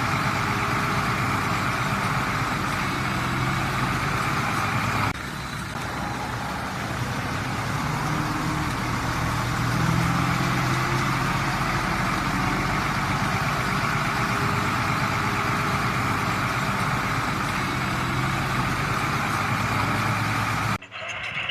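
Komatsu D20P bulldozer's diesel engine running steadily, with an abrupt dip in level about five seconds in and a sudden cut near the end.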